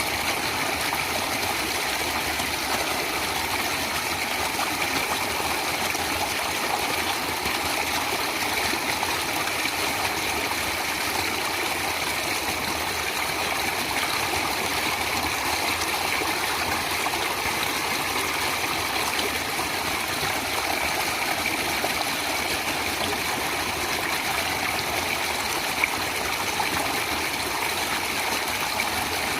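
Steady rushing of a flowing stream, an even wash of water noise with no change in level.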